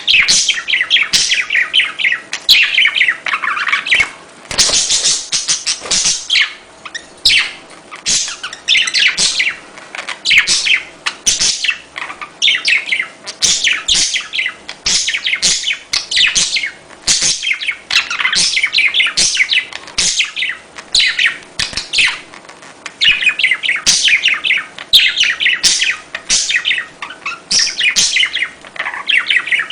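Budgerigars chattering and warbling: quick runs of high chirps in bursts about a second long, one after another with short gaps.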